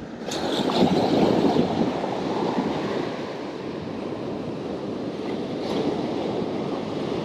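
Surf breaking and washing up the beach, swelling about a second in and then settling into a steady wash.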